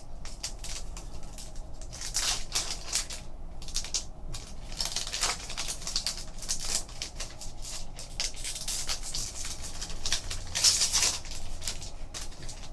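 Trading cards being handled and flipped through by hand: quick papery clicks and rustles, with a few longer sliding swishes about two, five and eleven seconds in.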